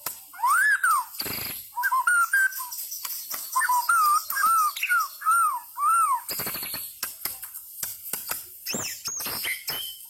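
White-rumped shama singing: clear, arching whistled notes, with a quick even series of them in the middle, broken by harsh rasping bursts and a few high, sharp notes near the end.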